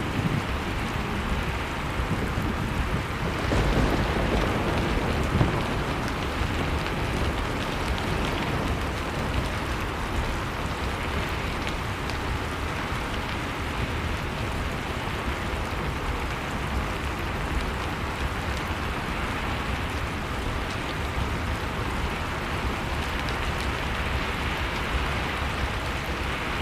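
Blizzard wind blowing steadily, mixed with a wood fire crackling in a fireplace. The wind swells briefly about four seconds in.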